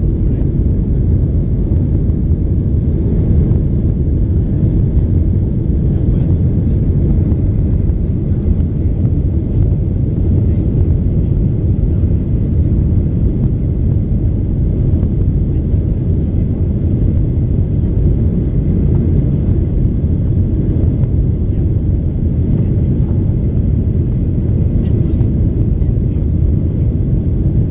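Steady low cabin noise of a jet airliner in flight, the engines and rushing air heard from inside the passenger cabin, holding even throughout.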